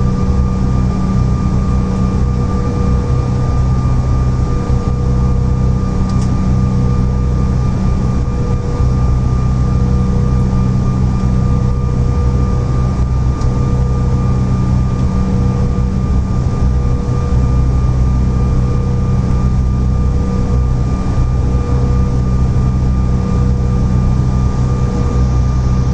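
Cabin drone of a CRJ-900 with its two rear-mounted GE CF34 turbofans running at low, even power. It is a steady whine at constant pitch over a low rumble, with no change in level.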